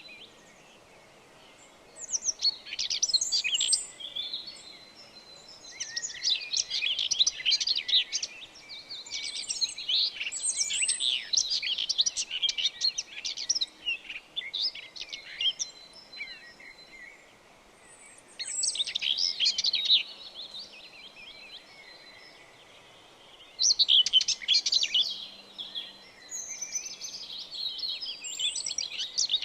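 Songbirds singing: bursts of quick, high chirping notes, some running on for several seconds, with short pauses between them.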